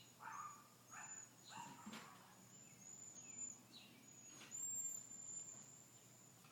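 Faint bird chirps: a series of short calls, several in the first two seconds and a few more later, over quiet background noise.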